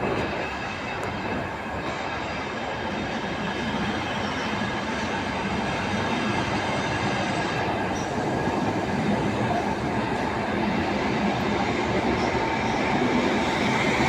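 Diesel train pulling away from a station platform, its diesel engine running under load and the cars rolling on the rails, gradually growing louder.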